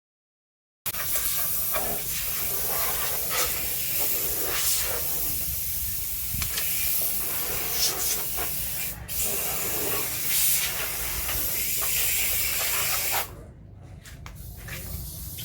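Water spraying onto a motorcycle in a steady hissing jet that starts about a second in and cuts off shortly before the end, leaving quieter dripping and small clicks.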